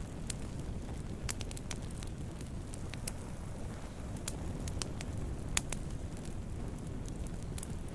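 Campfire burning wood: a steady low rumble of flames with scattered sharp crackles and pops, one louder pop about five and a half seconds in.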